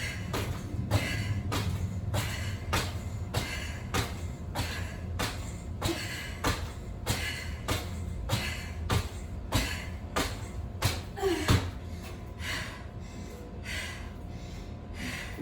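Rhythmic thuds about twice a second with hard, quick breathing: repeated foot landings and the breathing of someone working hard through a high-intensity exercise set.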